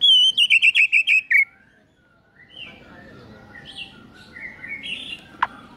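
White-rumped shama (murai batu) singing: a loud, rapid run of about ten stuttering notes over the first second and a half, falling slightly in pitch, then quieter varied whistled phrases. A single sharp click near the end.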